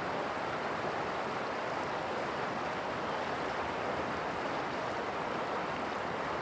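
Steady rushing of a fast-flowing river, an even unbroken wash of water noise.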